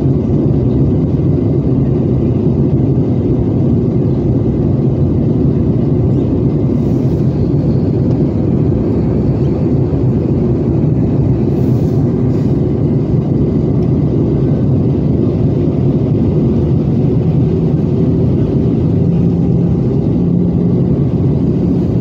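Steady cabin noise inside an Airbus A320-214 descending for landing: a deep, even rumble of airflow and its CFM56-5B engines, with a low steady hum joining near the end.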